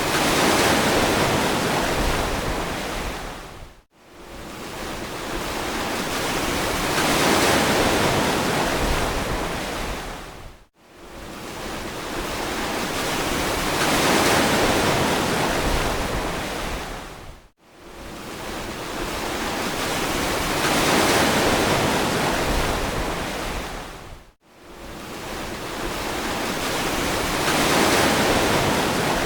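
Ocean surf: waves wash in and fall away in even swells about every seven seconds. Each swell breaks off in a brief, abrupt gap of silence, four times.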